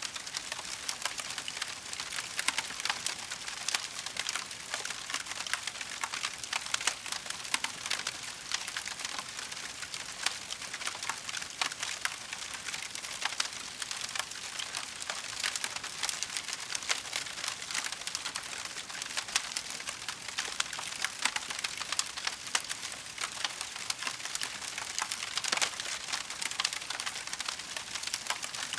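Wood fire crackling, a dense, irregular run of small snaps and pops over a steady hiss.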